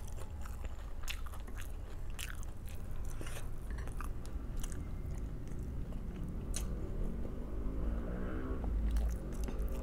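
Close-miked chewing and biting, with wet mouth clicks and some crunchy bites spread irregularly throughout.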